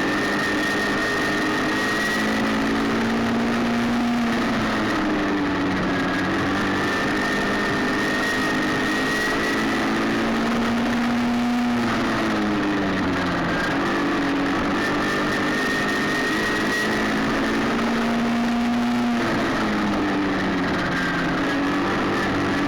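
Racing midget engine running laps on a paved oval. Its pitch climbs steadily along each stretch and drops sharply as the throttle comes off for the corners, about every seven seconds.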